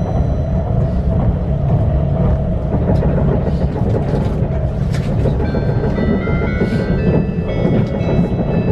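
Limited express train running, heard from inside the passenger car: a steady low rumble with a few sharp rail clicks. Over the last three seconds several held high tones join in.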